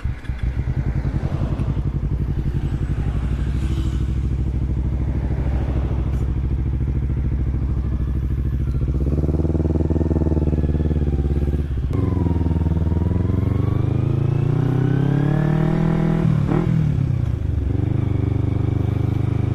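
Kawasaki Ninja 250 carburettor model's parallel-twin engine running through an aftermarket Akrapovic exhaust: steady at first, then revving as the bike pulls away about nine seconds in. The pitch climbs, drops at an upshift about twelve seconds in, climbs again and drops at a second shift a few seconds later, then holds steady.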